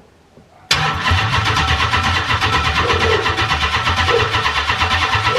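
Freshly rebuilt Dodge 6.1 Hemi V8 in a Charger SRT8 cranking on the starter in a start attempt, a fast, even churning that begins suddenly about a second in. The engine will not start and stay running, which the owner suspects comes from a missed wire or ground.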